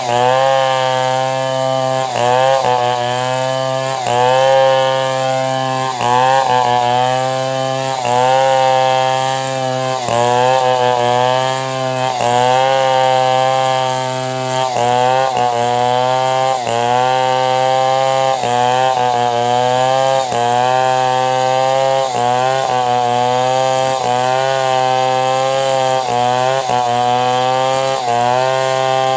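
Chainsaw running under load while ripping a log lengthwise into planks. The engine's pitch sags and recovers about every two seconds as the chain bites into the wood.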